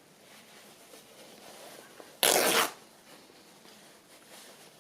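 Fabric being torn by hand: one short ripping tear about two seconds in, lasting about half a second.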